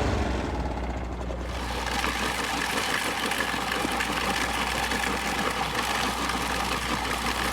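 Vehicle engine running steadily, a constant low hum with road or motor noise over it.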